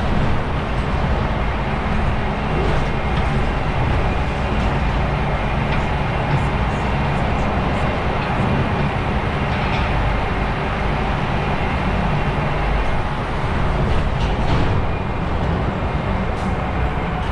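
Steady engine and road noise of a DAF XF truck driving at an even pace, with a low engine hum under the rolling noise.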